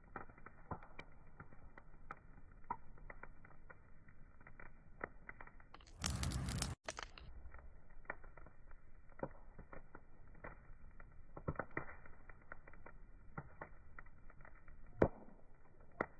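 Wood fire crackling, with irregular small pops and snaps and one sharper pop near the end. About six seconds in, a louder rushing burst lasts under a second and cuts off suddenly.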